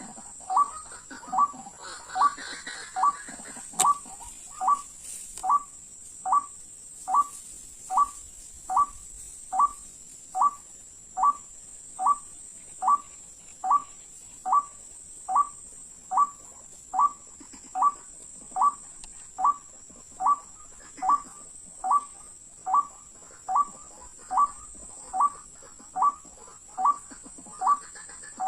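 Waterhen (ruak-ruak) call: a short rising note repeated evenly a little faster than once a second without a break, over a steady high-pitched whine.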